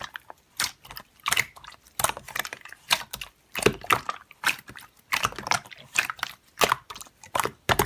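Slime being squished and pressed by hand, giving a string of irregular sticky clicks and crackling pops.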